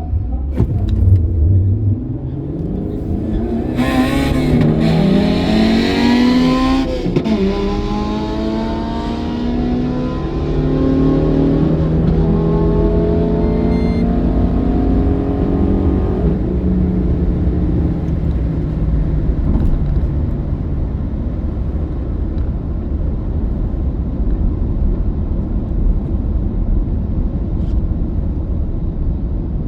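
Holden Commodore's Ecotec V6 at full throttle on a quarter-mile drag run, revving up through the gears with a gear change about seven seconds in. It keeps climbing until about sixteen seconds in, then eases off to a steadier drone.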